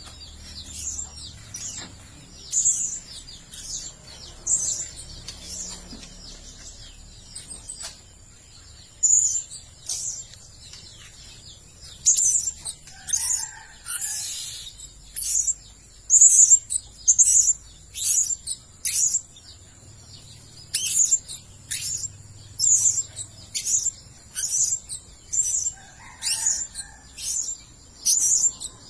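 Blue-crowned hanging parrots giving short, shrill, high-pitched calls, about one or two a second and more frequent in the second half, over a faint steady high-pitched whine.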